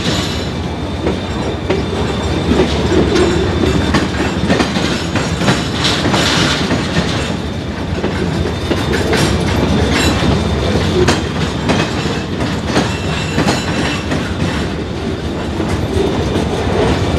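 A string of railroad cars rolling past at slow speed while being shoved by a locomotive, wheels clicking steadily over the rail joints, with faint wheel squeal at times.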